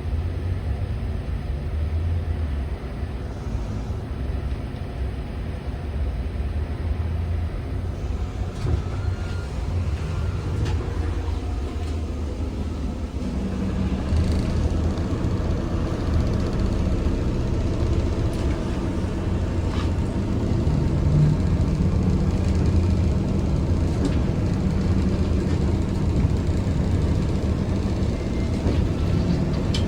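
ZiU-682G-016.02 trolleybus running along the route, heard from inside the cabin: a steady low rumble of the moving vehicle that grows a little louder about halfway through.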